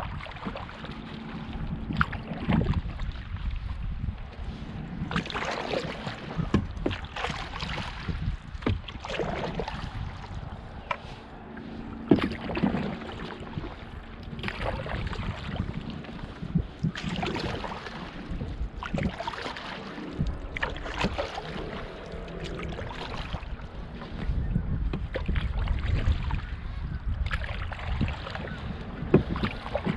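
Canoe paddle strokes in the water, a swish of water every couple of seconds as the paddle pulls through.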